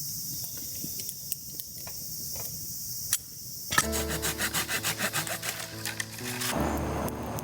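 Insects trilling steadily, then, about four seconds in, a folding hand saw cutting wood in repeated strokes, with music starting under it.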